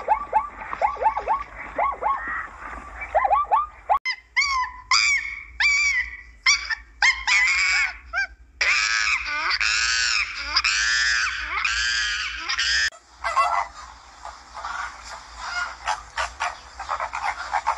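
A run of animal calls. First come quick, short squeaking calls. From about four seconds a monkey gives high calls that grow into long arching, wavering cries. From about thirteen seconds a flock of flamingos honks and chatters.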